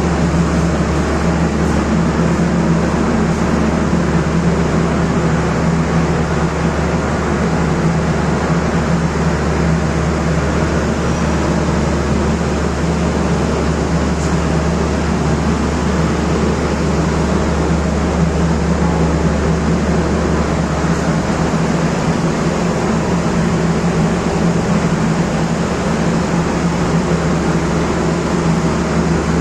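Steady, loud mechanical hum with a strong low drone, unchanging throughout.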